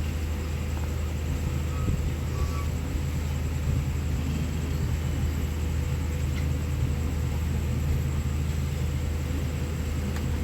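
Steady low rumble and drone of a diesel-hauled passenger train running.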